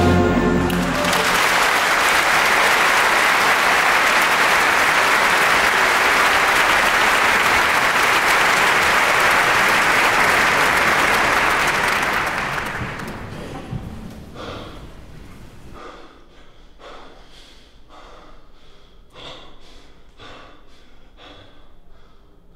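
Music cuts off about a second in and a crowd bursts into applause, a dense steady clapping that fades out after about twelve seconds, leaving a few scattered claps and clicks.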